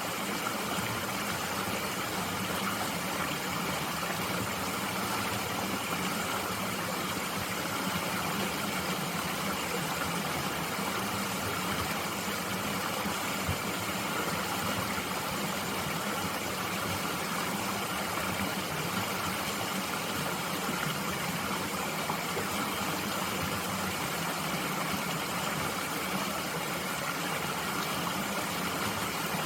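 Mountain stream flowing steadily, a constant rush of water over rocks.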